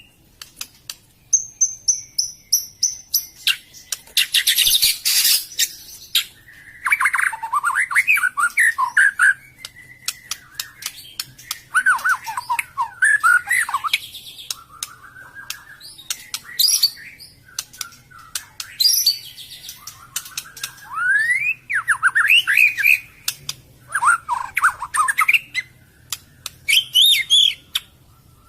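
White-rumped shama (murai batu) singing: a run of varied phrases of quick warbles and sweeping whistles with short pauses between them, including a harsh rasping note about five seconds in.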